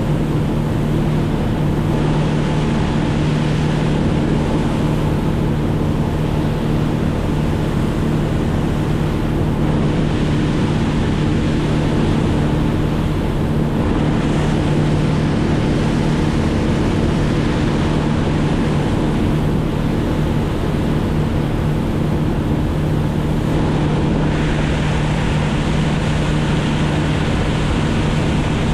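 An engine running steadily at constant speed, with rushing wind and water noise.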